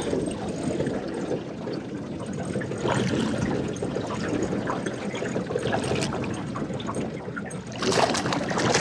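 Water sloshing and splashing, with many small trickling spatters and a louder splash about eight seconds in.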